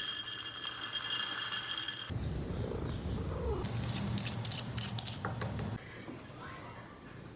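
A steady high-pitched hiss that cuts off about two seconds in, then a domestic cat purring with a low rumble and scattered light clicks, fading toward the end.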